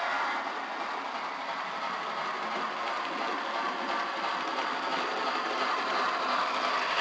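HO scale model train running on the layout, a steady rolling and running noise with a fine ticking texture.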